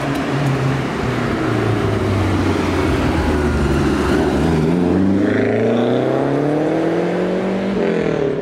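A car engine accelerating away: a low, steady note at first, then its pitch climbing steadily over the last few seconds before falling away near the end.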